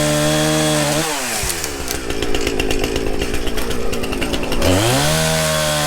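Two-stroke chainsaw revved high, then cutting into a walnut trunk. The engine's pitch drops and turns rough under load about a second in, and it climbs again near the end as the bar comes free.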